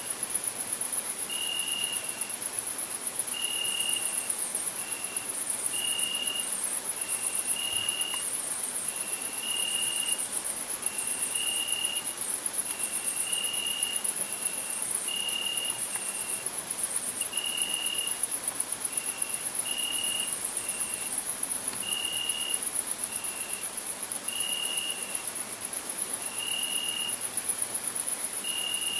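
Crickets trilling in a steady, dense, high-pitched chorus. Over it, short piping notes repeat about once a second, alternating between two slightly different pitches.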